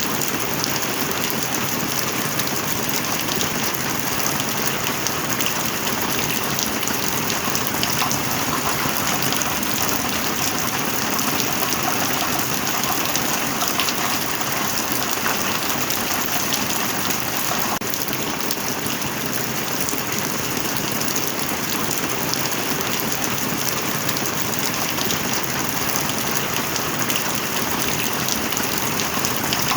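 Heavy rain falling steadily, a dense, even patter of drops without let-up.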